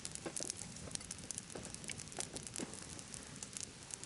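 Campfire crackling: burning wood giving off irregular sharp pops and snaps over a steady hiss.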